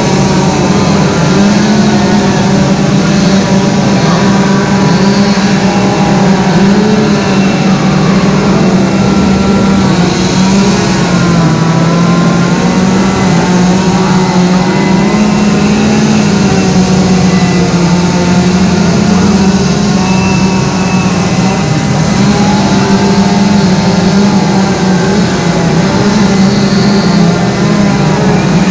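Two-stroke chainsaws running hard and cutting into wood. Their engine pitch sags under load and picks back up, and more than one saw can be heard at once.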